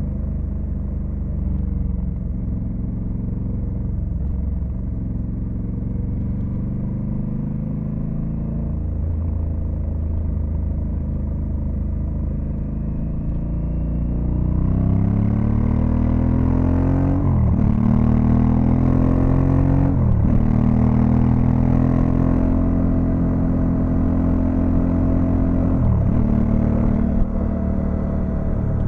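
Honda Africa Twin CRF1100L's parallel-twin engine, running steadily at low revs, then accelerating from about halfway: the revs climb and drop sharply at each of three upshifts. A rushing hiss of wind grows as the speed rises.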